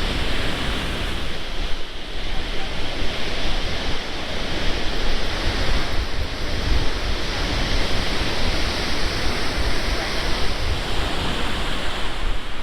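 Rough sea surf washing against the shore, a steady rushing noise that swells and eases, with wind buffeting the microphone in a low rumble.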